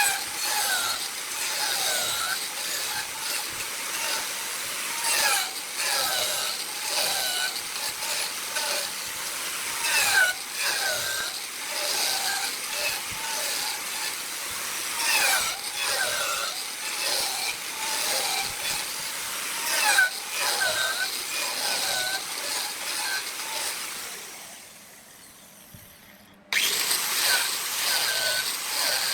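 Wood lathe turning a workpiece while a turning tool cuts into the spinning wood: a steady scraping hiss with frequent short squeals from the tool. It fades out near the end, then cuts back in abruptly.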